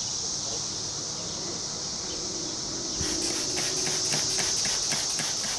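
Steady high insect chirring in the background; about three seconds in, a Zep trigger spray bottle starts squirting warm water in quick repeated pulls.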